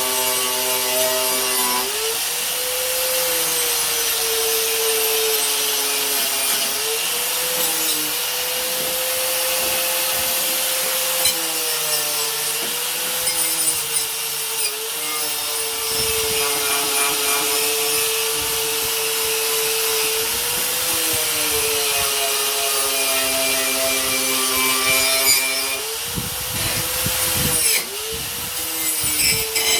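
A power tool running steadily against a steel cleaver blade to strip the rust, with a hiss of abrasion over the motor's hum. The motor's pitch sags briefly several times as the tool is pressed harder into the metal, most markedly near the end.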